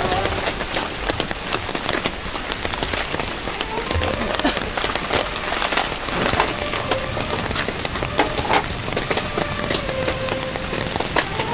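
Steady rain falling and striking a surface, with many sharp individual drop hits.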